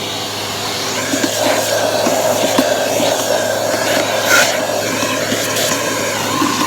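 Bissell vacuum cleaner running steadily, with short clicks and rattles of debris being sucked up through the hose.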